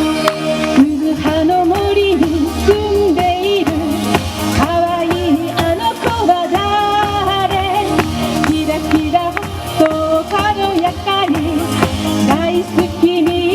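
Upbeat Japanese pop song with a woman singing the melody over a backing track with a steady beat.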